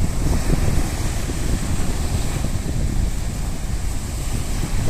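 Sea waves washing steadily against the shore, with wind buffeting the microphone in a heavy low rumble.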